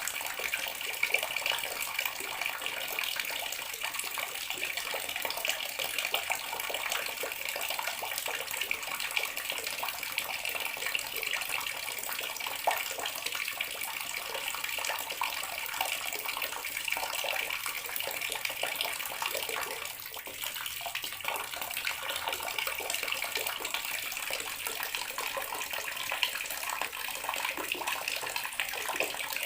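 Water tap running steadily into a bathroom sink, a continuous splashing stream with no pauses.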